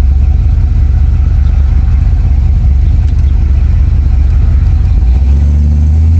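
Car engine running with a loud, deep rumble; about five seconds in its note rises as the engine picks up revs.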